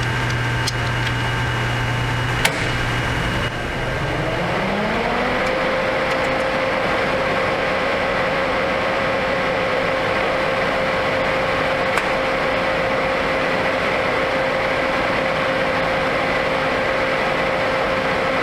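Angle grinder cleaning the metal before welding. Its motor winds up with a rising whine about three and a half seconds in, then runs steadily at speed.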